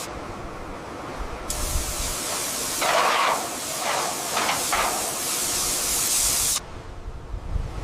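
Loud hissing spray noise in abrupt, edited segments, with a few stronger gushes in the middle.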